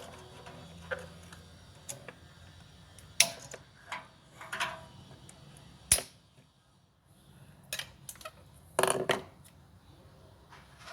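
Irregular sharp clicks and knocks of hand tools and metal parts as an old microwave oven is being taken apart, a few seconds apart, with a short clattering cluster near the end.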